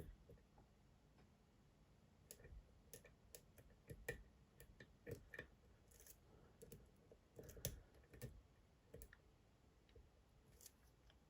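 Faint, irregular small clicks of a lock pick probing and setting pins inside a Dom IX Twinstar lock under tension, a few louder ticks among them.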